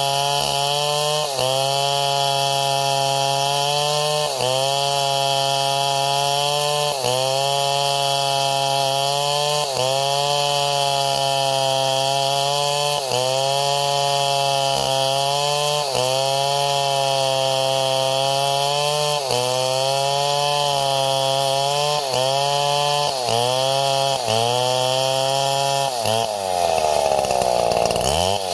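Petrol chainsaw running under load, its engine note dipping briefly and picking back up about every second and a half. Near the end the revs sag deeply and climb back.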